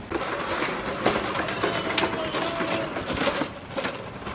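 Ride-on toy motorcycle rolling and rattling, a dense clattering with many sharp clicks that starts suddenly.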